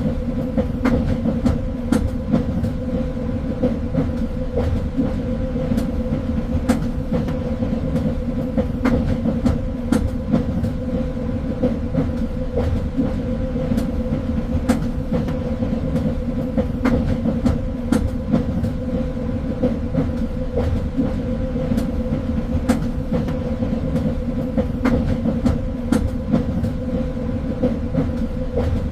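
Train running steadily along the rails: a constant low rumble with a steady hum, and frequent sharp, irregularly spaced clicks and knocks from the wheels and carriage.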